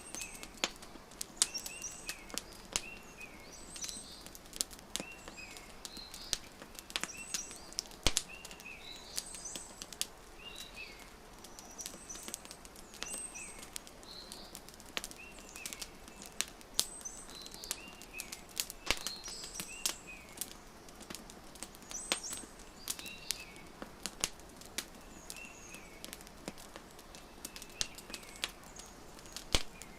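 Wood fire crackling, with frequent irregular sharp pops, mixed with small birds chirping in short repeated calls.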